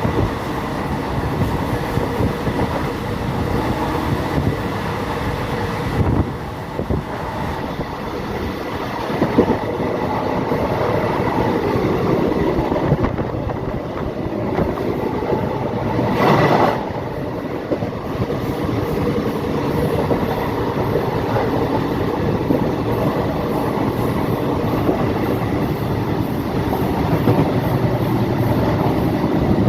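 Passenger train running along the track, heard from on board: a steady rumble with clickety-clack from the rails and occasional knocks, and a brief louder rush about halfway through.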